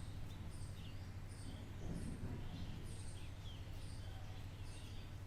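Small birds chirping repeatedly in the background, short high chirps every half second or so, over a steady low hum.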